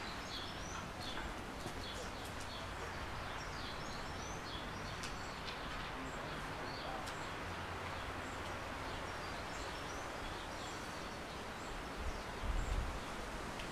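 Small birds chirping and twittering over a steady outdoor hiss, with a brief low rumble near the end.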